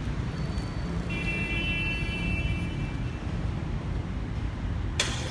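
Geely Coolray's 1.5-litre turbocharged three-cylinder engine idling steadily after being started with the key. A steady high-pitched tone sounds for about two seconds from a second in, and a sharp click comes near the end.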